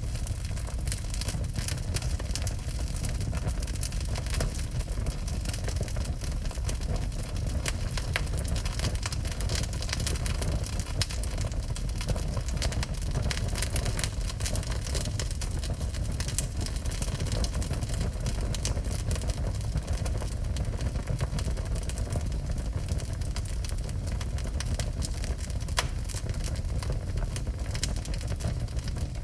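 Wood fire burning in a fireplace: a steady low rumble with many small crackles and pops throughout.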